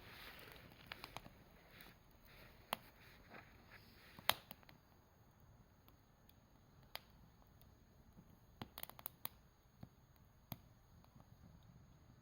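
Campfire burning faintly, with scattered sharp crackles and pops a second or more apart over a faint hiss.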